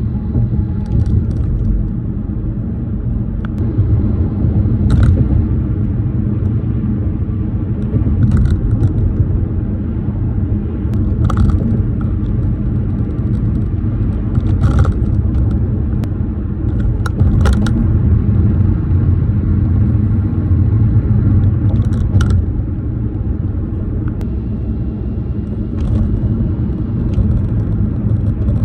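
Tyres rumbling steadily over pavement, heard from inside a moving car. Sharp clicks and knocks come every few seconds, from plastics in the car and phone mount rattling after freeze-thaw damage.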